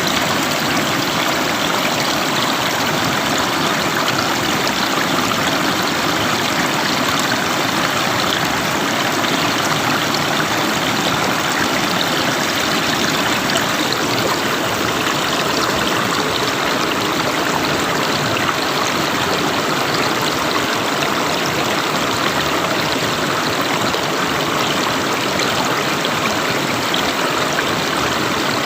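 River water flowing, a steady, even rush with no pauses.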